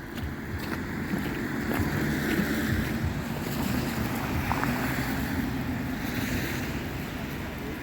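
Wind buffeting the microphone outdoors: a steady rushing noise with a fluttering low rumble.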